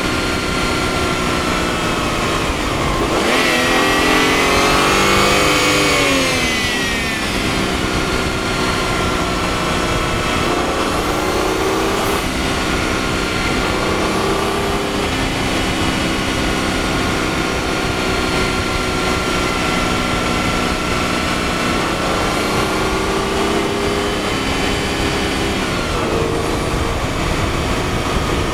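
Twin-turbo BMW engine, heard through a microphone at the engine, under way on the road. About three seconds in it revs up as the car accelerates, then drops back and holds a steady cruising note, with a brief dip in revs near the end.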